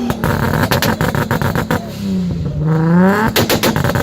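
A car engine being revved hard, free-revving: its note climbs sharply about two seconds in, with runs of rapid crackling pops before and after the rev.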